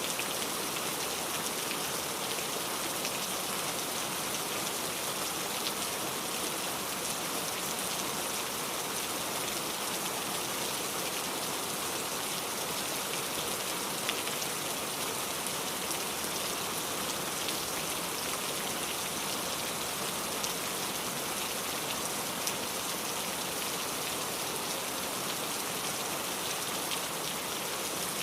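Steady rain falling, a dense even hiss of many raindrops with occasional single drop ticks standing out.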